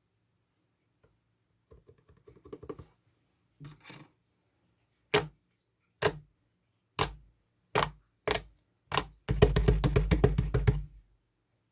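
White slime-like putty being pressed and worked by hand, giving sharp popping clicks. The clicks come singly about once a second at first, then in a fast crackling run near the end.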